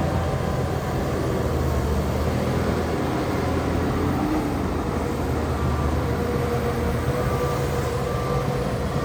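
Heavy diesel earthmoving machinery running steadily under load, a low engine drone. A faint higher whine joins it about halfway through.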